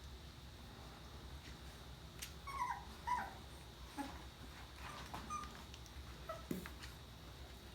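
Two-and-a-half-week-old puppies whimpering: a series of short, high squeaky cries, the loudest about three seconds in.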